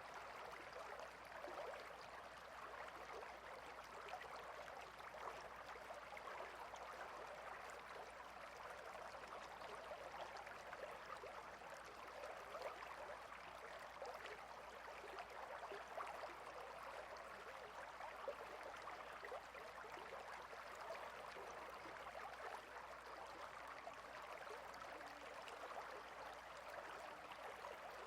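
Small stream flowing over stones, a quiet, steady babble of running water.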